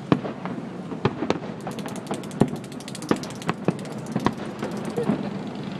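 Fireworks going off: irregular sharp bangs, with a dense run of rapid crackling in the middle.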